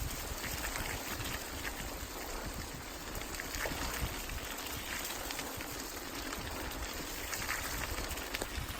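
Steady rain, with scattered drops ticking close by over a low, steady rumble.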